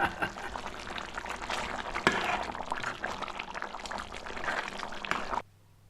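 Thick chicken liver curry bubbling and spluttering in the pot, a dense wet crackle that stops abruptly near the end.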